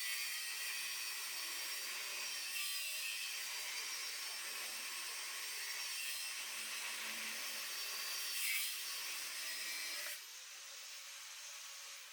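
A power tool running steadily, then easing off about ten seconds in.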